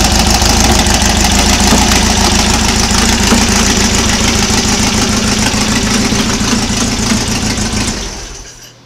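2276 cc air-cooled Volkswagen flat-four with an Engle 120 cam, running steadily at idle, then switched off near the end and dying away.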